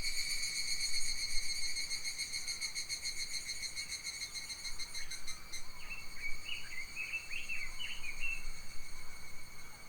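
Summer forest ambience: an insect trills continuously on a high note, pulsing rapidly at first and then holding steady from about halfway. A bird gives a quick series of short chirps in the second half.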